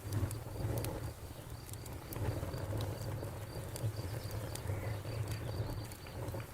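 Campfire crackling, scattered sharp pops over a low steady rumble, while a cricket chirps steadily about five times a second.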